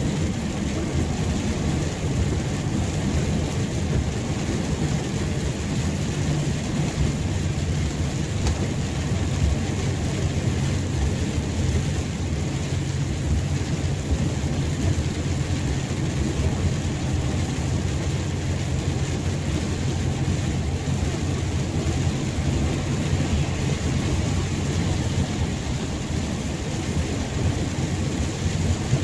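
Heavy rain falling steadily, a constant hiss with a strong low rumble underneath.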